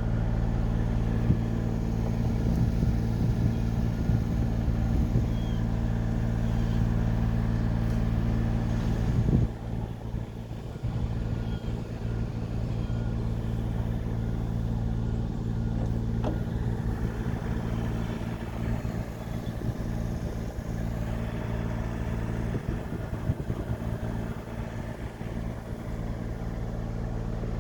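Large engine running steadily at a constant speed, a deep even rumble. About a third of the way in, the deepest part of the rumble drops away and it goes on a little quieter.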